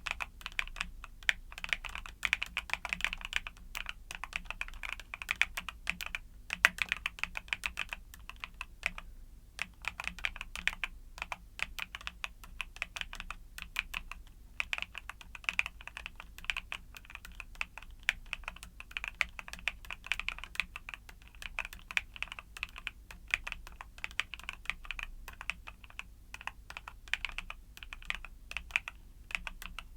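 Continuous fast typing on a mechanical keyboard with YUNZII Cocoa Cream switches: a dense run of keystroke clicks, pausing briefly twice.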